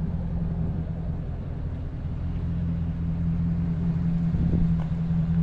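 Vehicle engine running steadily at low, even revs: a constant low drone.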